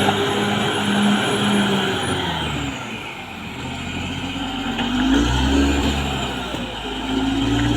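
Caterpillar D6R XL bulldozer's diesel engine working under varying load. The engine note dips about three seconds in and swells again about two seconds later.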